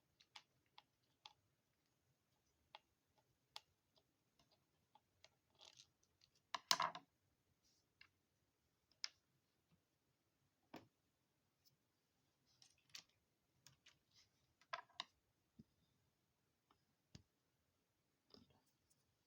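Sparse light clicks and taps of small tools and plastic and metal parts being handled while an RC crawler's front axle is taken apart. A louder brief rattle comes about seven seconds in, and smaller ones come near the end.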